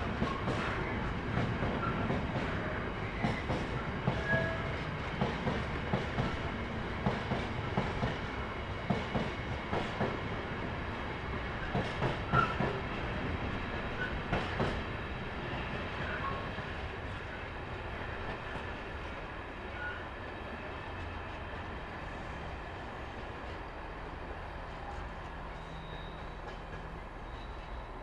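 A train rolling past, its wheels clicking over rail joints in quick, uneven knocks over a low rumble; about halfway through the clicking stops and the sound dies down to a quieter steady rumble.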